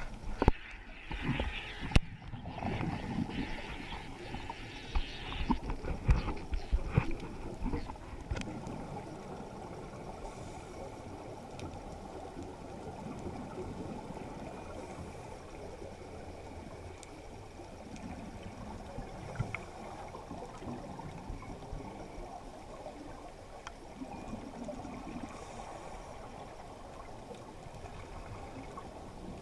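Water noise: irregular splashing and gurgling for the first several seconds, then a steady rushing wash.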